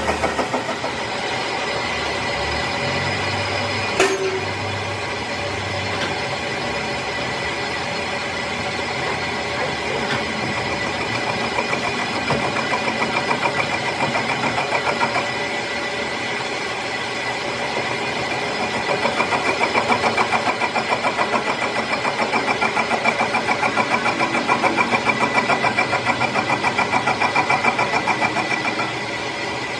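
Metal lathe running under power, a steady motor and gear whine with a rhythmic pulsing in loudness as the work turns. There is a single sharp click about four seconds in, and the running eases off near the end.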